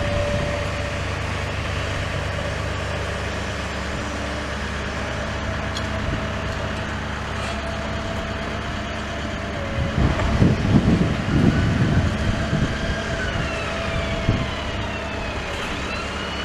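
Steady low engine rumble, swelling into a louder rough rumble about ten seconds in; a few seconds later an emergency vehicle's siren starts wailing, its pitch rising and falling.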